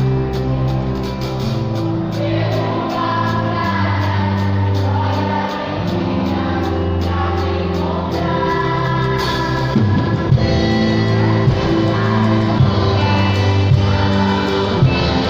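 A choir singing a worship song with band accompaniment: sustained bass and chord notes under the voices and a steady ticking beat, with sharper drum hits joining about ten seconds in.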